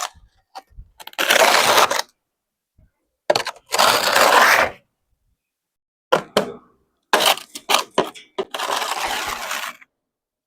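Snow being scraped and scooped with a dustpan: about four rough scraping strokes, each roughly a second long, with a few short sharp knocks between them.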